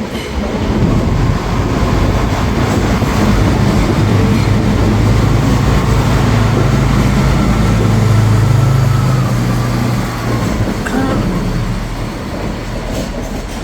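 Northern diesel passenger train moving through the station, its engine giving a steady low drone over the rumble of the wheels. The sound swells in the first couple of seconds and eases off near the end.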